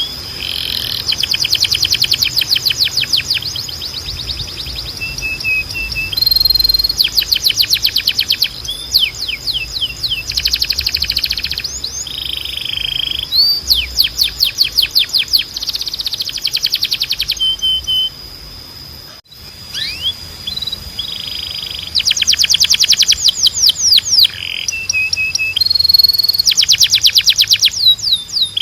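Timbrado canary singing: phrases of fast repeated trills a few seconds long, linked by short held whistled notes, with a steady high tone underneath. The song drops out briefly about two-thirds of the way through.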